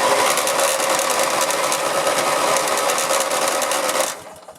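Electric starter cranking a riding mower's opposed-twin engine on a jumped battery: a steady, fast whirring that runs unbroken and then stops about four seconds in. The engine turns over but does not catch.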